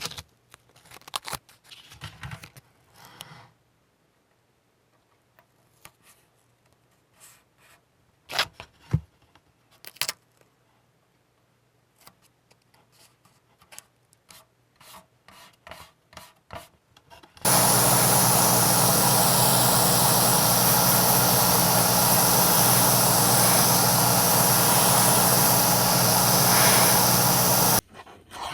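Masking tape being peeled off a plastic model hull in short pulls, with small crinkles and clicks. About two-thirds of the way in, a loud steady hiss-like noise starts, runs for some ten seconds and cuts off suddenly.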